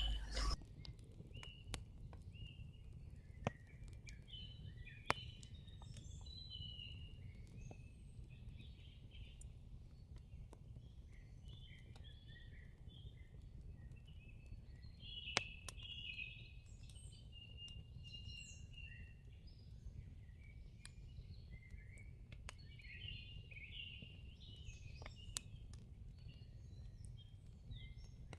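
Faint chorus of small birds chirping and twittering continuously, over a steady low rumble, with a few sharp clicks here and there.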